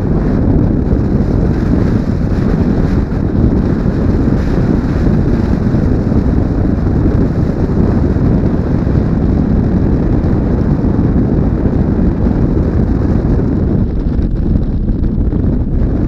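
Steady wind rush buffeting a helmet-mounted action camera's microphone on a moving motorcycle, a dense low roar that hides any engine note.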